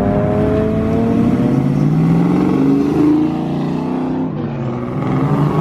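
Car engine revving hard under acceleration, its note climbing over the first few seconds and then falling away.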